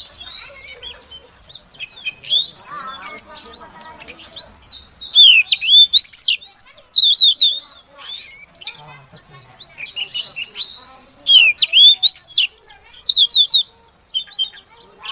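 Female Oriental magpie-robin (kacer) calling to a male: a dense string of sharp chirps and quick swooping whistles, with two loud runs of repeated down-and-up notes, one about a third of the way in and one near the end.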